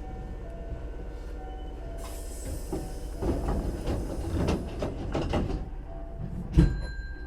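Hankyu 3300 series commuter car standing at a platform over a steady low hum. A hiss of air starts about two seconds in, rattling follows, and a loud thud comes about six and a half seconds in, the sliding doors being worked and shutting.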